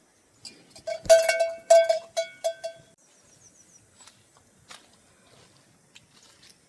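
A livestock bell clanking, about seven ringing strokes of the same pitch between about one and three seconds in, then only faint clicks.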